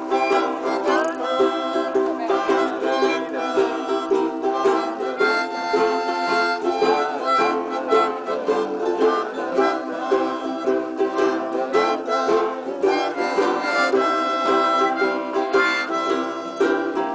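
A group of ukuleles strumming a steady country rhythm while a harmonica plays an instrumental break of the melody, its notes held and bent.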